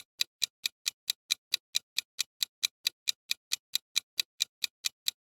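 Clock-like ticking sound effect of a countdown timer, sharp even ticks about four to five a second.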